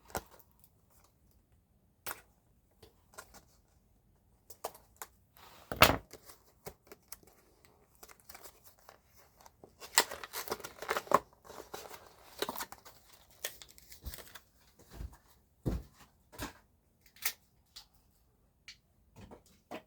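Small plastic packet being opened and crinkled while a Scalextric digital chip is taken out and handled, with scattered light clicks and one sharper click about six seconds in, and a longer stretch of rustling about ten seconds in.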